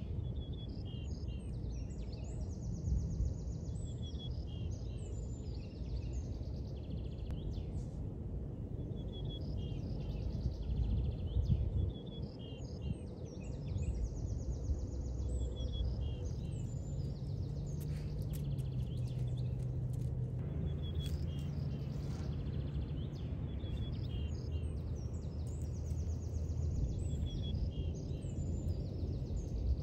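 Small birds chirping in short repeated phrases over a steady low rumble of outdoor background noise.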